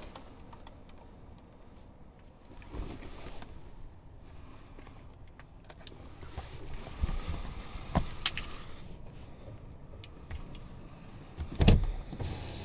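Clicks and knocks from the controls and fittings of a BAIC BJ30e SUV being worked, over a low steady hum, with a loud thud near the end.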